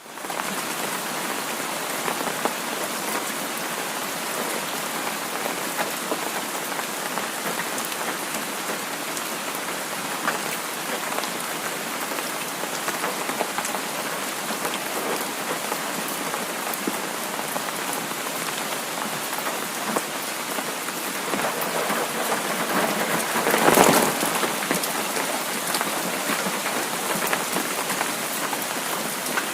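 Heavy rain falling steadily, with a brief louder swell about three quarters of the way through.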